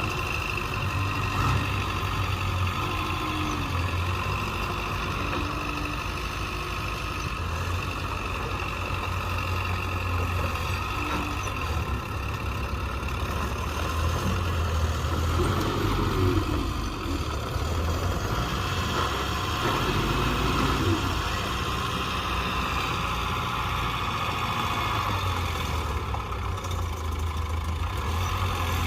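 Bulldozer diesel engine running steadily, its low drone swelling and easing several times as the machine works.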